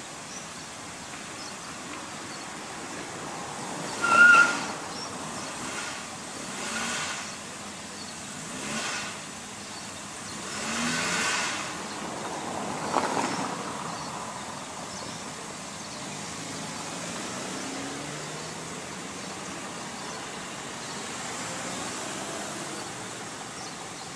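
Lowered Honda Civic sedan's engine revving in repeated bursts as the car, too low to clear it, tries to get over a speed bump. There is a short, loud, high-pitched noise about four seconds in and a thump about thirteen seconds in.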